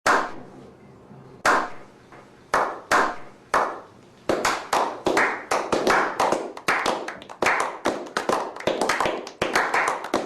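Hands clapping: a few separate claps at first, then from about four seconds in a quicker, thicker run of overlapping claps from several people.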